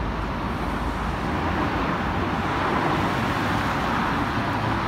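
Steady road traffic noise of vehicles going by, swelling a little about halfway through.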